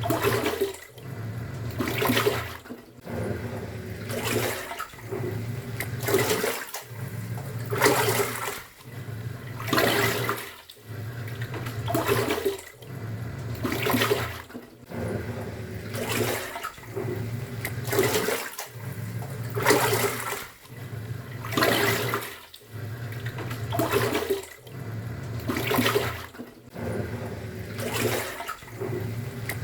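Top-loading pulsator washing machine in its wash cycle: the motor hums as the pulsator churns the water, stopping briefly and reversing about every two seconds, with water sloshing on each stroke.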